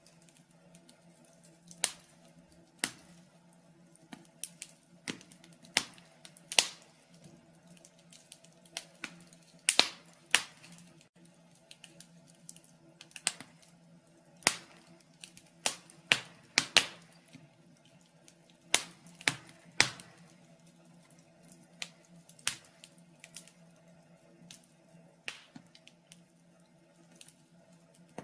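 Wood fire in a fireplace crackling, with irregular sharp snaps and pops over a faint steady hum.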